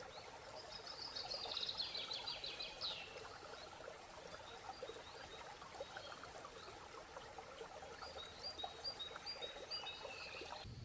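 Birds singing over a steady background of trickling water: a phrase of fast repeated high notes in the first three seconds, then another series of short repeated notes near the end.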